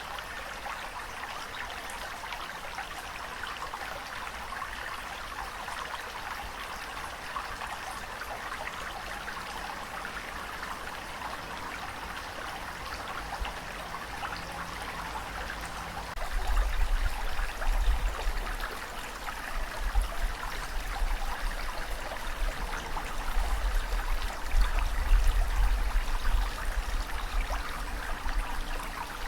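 Water rushing and splashing in a steady stream of fine patter. About halfway through, a deep, uneven low rumble comes in and the sound grows louder and surges.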